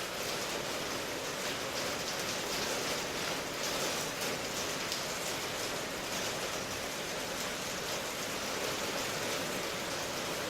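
Steady rain falling, a continuous even hiss with no single drops or thunder standing out.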